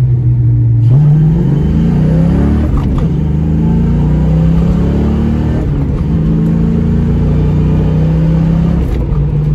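Swapped 5.0 V8 of a 1993 Ford Mustang LX pulling under acceleration, heard from inside the cabin: the engine note climbs, drops back about three seconds in and again near six seconds in, then holds steady.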